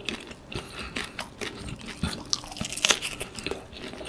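Close-miked chewing of a mouthful of shrimp pad thai, with many short, irregular crunches.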